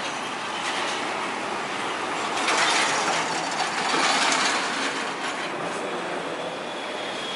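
Passing road traffic: a steady rushing hiss of tyres and air that swells for about two seconds near the middle as a vehicle goes by.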